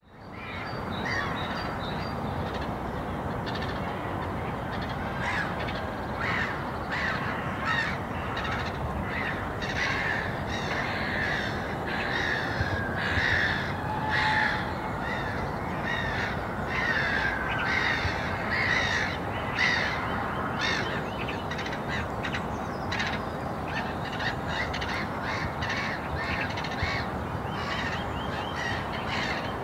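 Birds calling outdoors, many short calls one after another throughout, over a steady low background noise.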